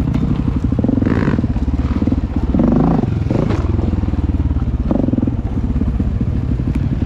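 Dirt bike engine running steadily as the bike is ridden along a trail, its revs rising and falling once around the middle.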